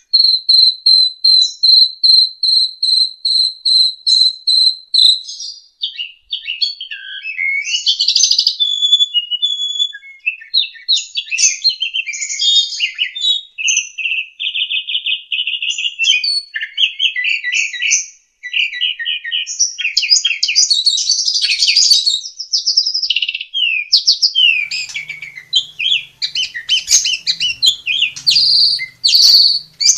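Asian pied starling (jalak suren) singing a long, loud song. It opens with an even series of quick repeated high notes for about five seconds, then breaks into a varied run of chattering phrases, trills and whistles.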